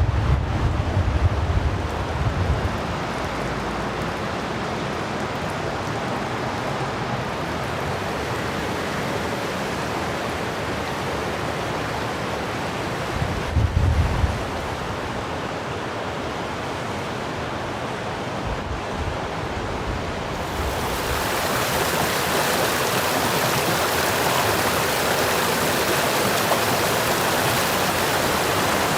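Steady rushing noise like wind or water, with low rumbles of wind buffeting the microphone near the start and about halfway through. It turns abruptly brighter and hissier about two-thirds of the way in.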